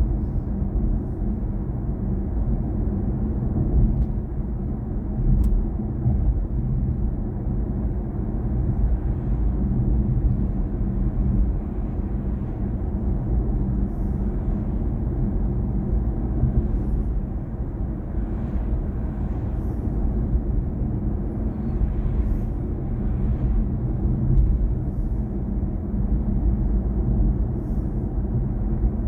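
Steady low road and tyre rumble of a moving BMW i4 M50 electric car, with no engine note.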